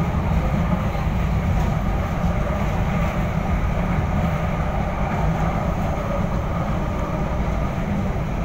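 Passenger train running steadily, heard from inside the car: a continuous low rumble of the wheels on the track.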